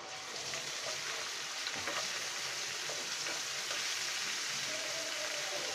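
Onions and fresh ginger-garlic paste sizzling in hot oil in a frying pan while a spatula stirs them. The sizzle grows louder over the first second or two as the wet paste hits the oil, then holds steady.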